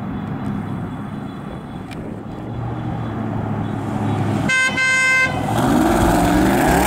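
LS3 V-8 of a 1967 Corvette restomod running through its side-exit exhaust as the car rolls slowly across a lot, getting louder as it comes closer. About four and a half seconds in, a car horn gives a short double honk.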